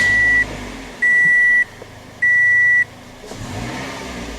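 2006 Toyota Corolla's dashboard warning chime beeping three times at one steady high pitch, about once a second, over the engine running. About three seconds in the engine revs up briefly.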